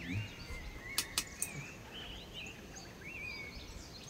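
A bird singing a run of repeated whistled phrases, with three short sharp clicks about a second in.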